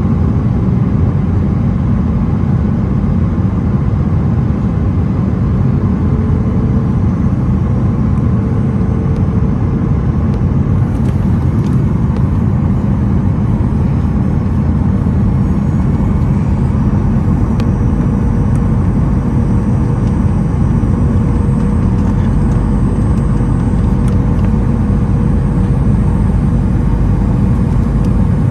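Steady cabin roar of a Boeing 737-900ER in flight, heard from a window seat: a low drone of engine and airflow, with a faint thin steady tone above it.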